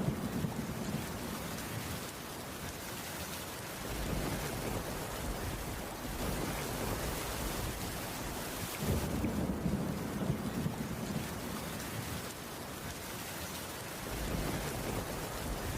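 Steady heavy rain, with low rolling thunder swelling up near the start and again about nine seconds in.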